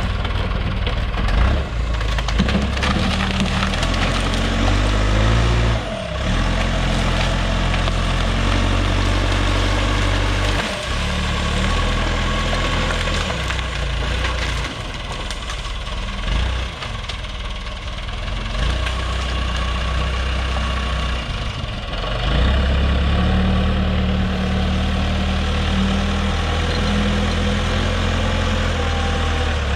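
JCB backhoe's diesel engine working under load, its speed rising and falling as it pushes trees and brush onto a burning pile, with wood crunching and snapping. The engine gets louder about two-thirds of the way through.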